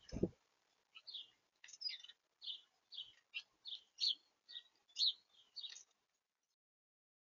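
A small bird chirping in a quick series of about a dozen short, high chirps, roughly two a second, picked up by a feeder camera's microphone. A low thump right at the start.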